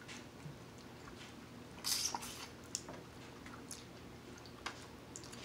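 Chewing and wet mouth sounds of people eating mussels, with scattered short smacks and a louder wet burst about two seconds in.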